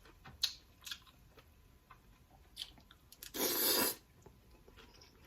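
Close-miked eating: chewing with a few sharp wet mouth clicks, then a loud noisy burst of eating sound lasting under a second a little past the middle.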